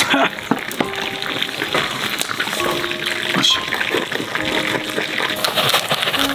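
Food sizzling and crackling in a metal mess tin over a campfire, with background music playing over it.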